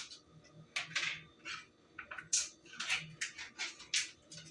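A spoon scooping sour cream from its container and scraping it into a mixing bowl: an irregular run of short, dry scrapes, two or three a second, without any ringing.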